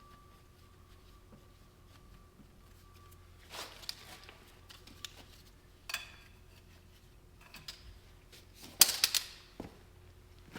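Scattered clicks and knocks of parts and tools being handled during machine servicing over a low steady hum, with a loud burst of rattling clatter about 9 seconds in.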